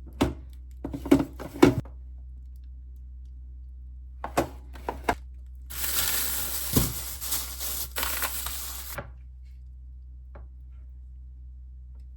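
Kitchen handling sounds: a few light knocks, then about three seconds of packaging being torn and crinkled.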